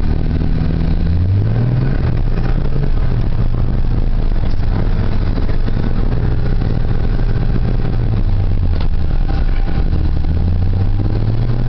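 Ford 4.9-litre (300 cu in) straight-six of a 1990 F-150 running at low revs as the truck is driven in four-wheel-drive low range, the engine note rising and falling a few times.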